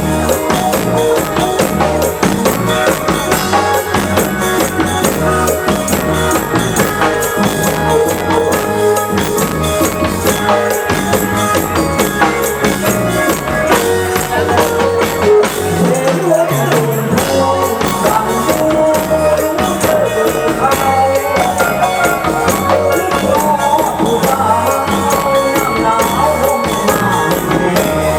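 Thai ramwong folk band playing a lively dance tune: drums and jingling percussion keep a steady beat under a melody.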